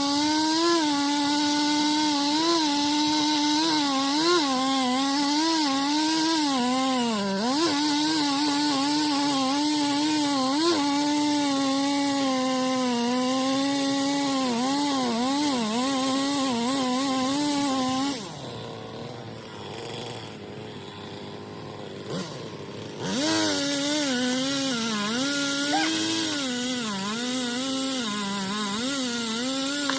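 Two-stroke chainsaw running at high revs while cutting a tree, its pitch wavering and dipping as the chain works in the wood. About 18 seconds in the revs fall away to a quiet idle for several seconds, then the saw revs up again and carries on.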